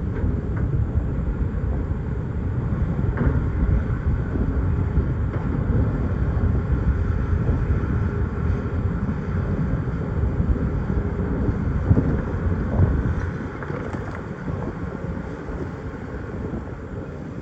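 Excavator's diesel engine running with a steady low rumble while it digs in rock, with a few knocks, the sharpest about twelve seconds in; the rumble eases a little near the end.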